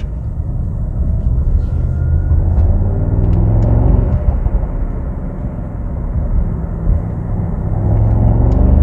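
Mercedes-AMG SL63's twin-turbo V8 running under way, a low rumble that rises in pitch as the car accelerates about three seconds in and again near the end.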